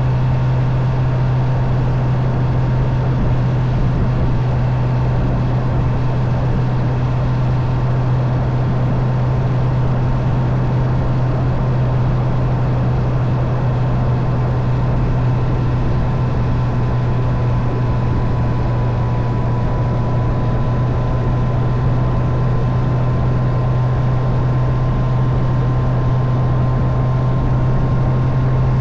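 Honda CB650R's inline-four engine running steadily at cruising speed, with wind rushing past. The engine note holds almost constant, with no gear changes or revving.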